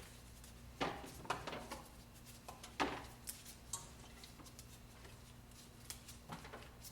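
Light clicks and knocks of kitchen items being handled, such as containers and utensils set down and moved, a few sharper taps about a second in and near three seconds, over a faint steady hum.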